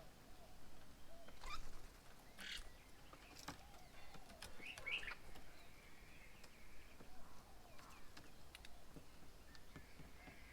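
Birds calling faintly at a garden bird table. Several short, sharp calls and a few chirps come at irregular intervals over a quiet background.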